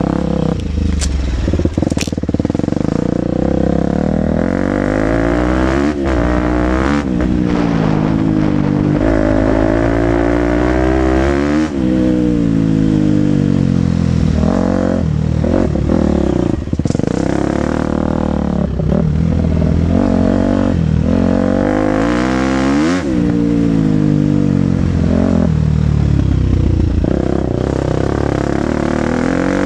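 KTM 250 SX-F's single-cylinder four-stroke engine ridden hard on a motocross track, revving up and dropping off again and again as the throttle is opened and shut, its pitch rising and falling every second or two.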